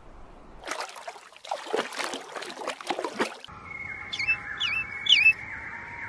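Wild birds calling: a burst of harsh, rapid calls for about three seconds, then three short chirps that swoop down and hook up, over a steady high whistle that cuts off suddenly at the end.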